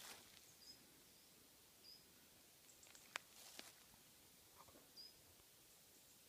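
Near silence outdoors, broken by a few faint, short high bird chirps a second or more apart and one sharp click about three seconds in, with light rustling of dry leaves underfoot.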